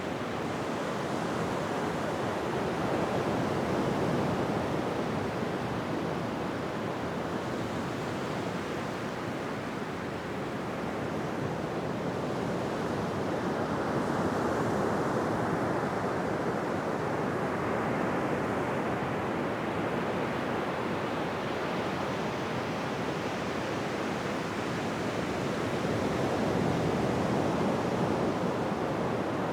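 Ocean waves breaking on a beach, a continuous wash of surf that swells and eases slowly, with peaks about every ten seconds.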